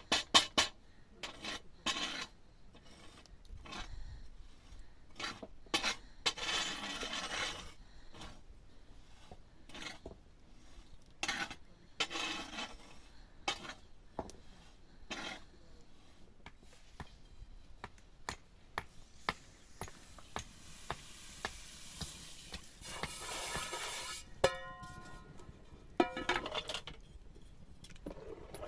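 Pots, dishes and utensils clattering and clinking, with stretches of scraping. About three-quarters of the way through, a struck metal vessel rings briefly.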